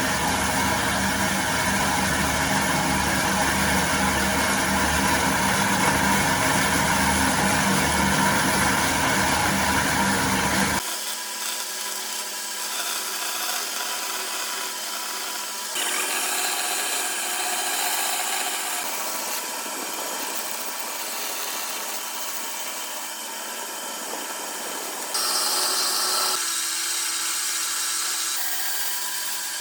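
Woodworking power tools running steadily while working wood. The sound is loud for the first eleven seconds, then changes abruptly to a thinner, quieter machine sound, with further sudden changes later on.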